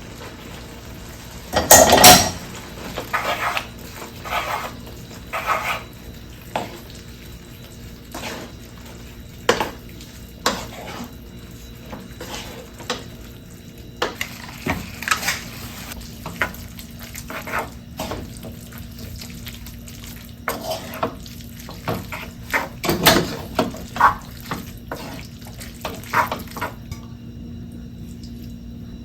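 Kitchenware clattering: dishes, pots and utensils being handled and set down in a string of irregular clinks and clanks, with the loudest clatters about two seconds in and again around twenty-three seconds.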